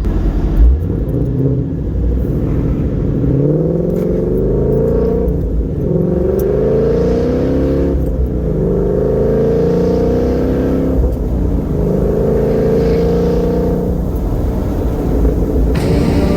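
A car engine accelerating through the gears, its pitch climbing, dropping back at each shift and climbing again several times.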